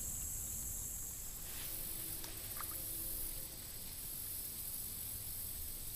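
Steady high-pitched insect chorus, crickets, in creekside ambience, with no other clear event.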